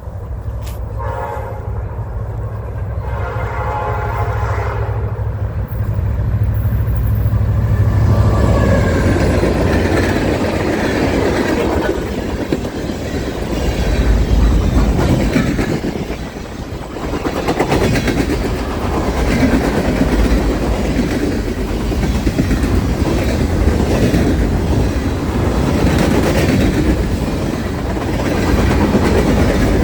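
Train passing close by. The locomotive horn sounds in a couple of blasts over the diesel engine rumble in the first several seconds, then the steady rumble and clickety-clack of the cars rolling past.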